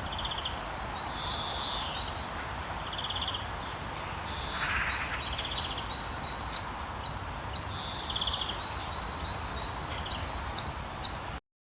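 Songbirds singing over a steady hiss of rain: repeated runs of short high chirps, mixed with brief buzzy trills. The sound cuts off suddenly near the end.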